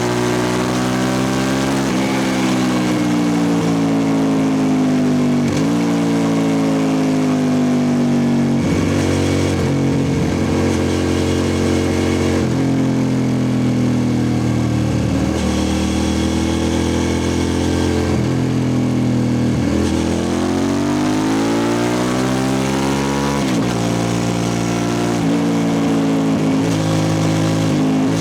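2003 Suzuki SV650S V-twin running loud through a Lextek exhaust with the dB killer removed. The engine note rises and falls several times, with sudden shifts in pitch as the engine speed changes between stretches.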